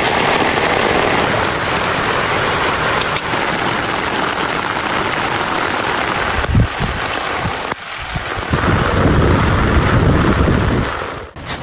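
Heavy rain pouring down in a steady dense hiss. Deep low rumbles come in a little over six seconds in and again from about eight to eleven seconds, and the sound breaks off abruptly several times, most sharply near the end.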